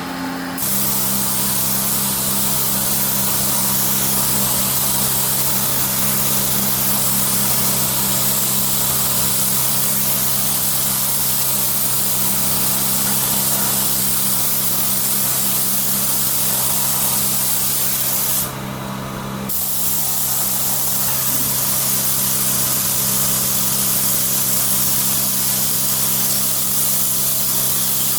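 Steady hiss of compressed air spraying from an air-driven spray tool, over a steady low hum. The spray cuts off for about a second roughly two-thirds of the way through, then resumes.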